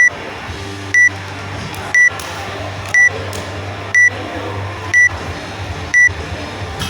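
Electronic workout timer beeping once a second, a short high-pitched beep each time, over a steady low hum.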